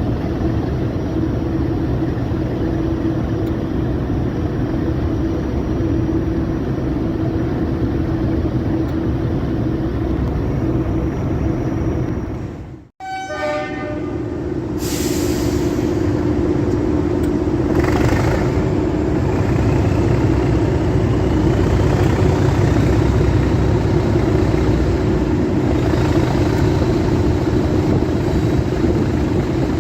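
Heritage diesel locomotive running with a steady engine drone. The sound drops out abruptly about halfway through, then resumes with two short hissing bursts and a faint rising whine.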